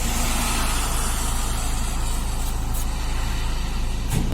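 Steady motor-vehicle noise: a low engine hum under an even hiss of road or traffic noise, with a few faint clicks near the end.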